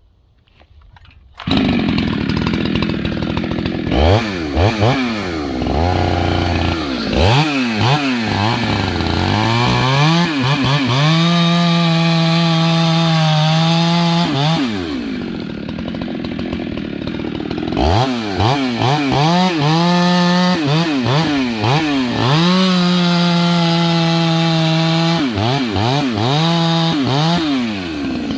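Husqvarna 390XP two-stroke chainsaw, fitted with a 394/395 carburetor and an 8-pin sprocket, coming in abruptly about a second and a half in. It revs up and down in quick blips, then holds steady high revs for a few seconds, twice, with a dip to lower revs in between.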